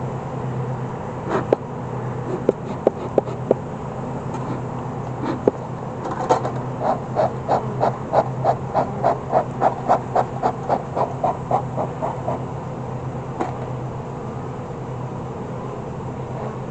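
Honeybees buzzing steadily around an open hive. A few sharp clicks in the first few seconds, then a quick, regular series of short scraping sounds, about four a second, lasting some six seconds.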